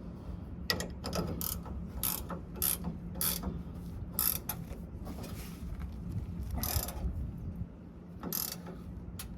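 Hand ratchet wrench clicking in a series of short strokes, tightening a leaf spring bolt.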